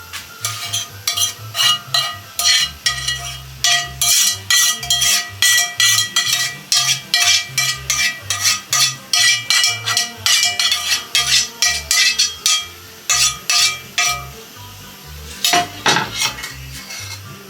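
A kitchen utensil stirring briskly in a mixing bowl, clinking and scraping against its sides about three times a second, mixing butter and milk for cinnamon-roll dough. The stirring stops about 14 seconds in, followed by one more knock against the bowl near the end.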